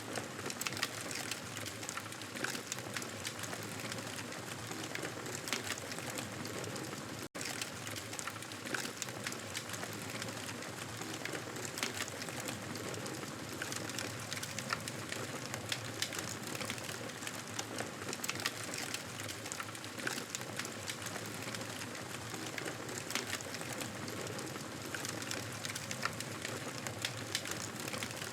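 Wood fire crackling and popping steadily, a continuous hiss dotted with many small sharp snaps, with a momentary dropout about seven seconds in.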